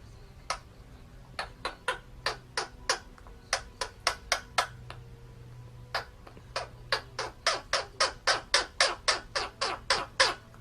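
A parrot giving a long series of short, sharp squawks, pausing briefly about halfway through, then speeding up to about three a second near the end.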